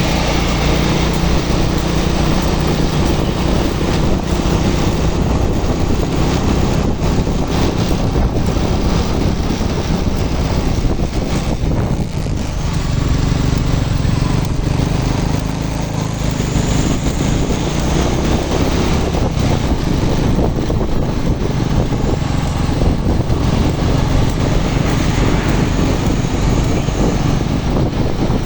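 Truck engine running hard under load on an uphill climb, with a brief dip in its sound about twelve seconds in.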